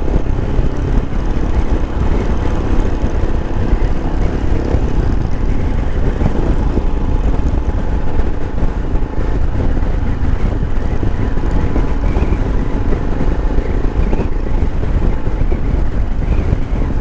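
Royal Enfield Himalayan's 411 cc air-cooled single-cylinder engine running steadily while the bike is ridden, mixed with wind noise.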